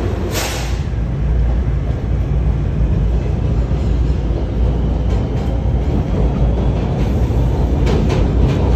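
Steady rumble of a moving train heard from inside the passenger car, with a brief hiss about half a second in and a few clicks near the end.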